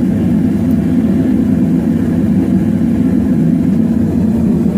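Steady, loud, low mechanical drone that holds level and unchanged.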